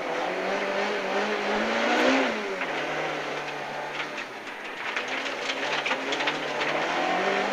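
Rally Ford Escort engine heard from inside the car, pulling hard out of a hairpin, easing off about two and a half seconds in, then building revs again, with scattered rattles and clicks over it.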